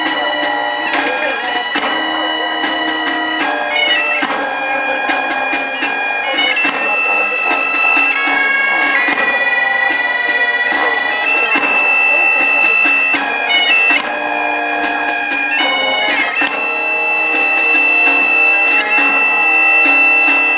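Loud wind-instrument music: a reedy melody of held notes with quick ornaments between them.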